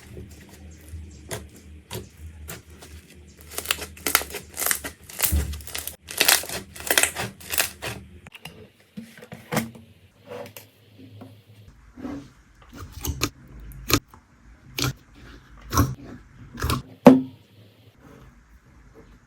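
Slime being handled: a dense run of crackly, sticky squelches and pops, then, about eight seconds in, sparser single pops and squishes.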